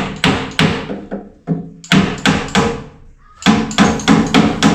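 A hammer striking repeatedly in quick runs of three to five blows, with short pauses between the runs. Each blow rings briefly.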